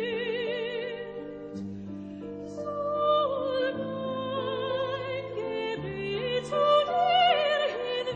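Operatic singing with wide vibrato on long held notes, over sustained low accompaniment that changes chord every second or two.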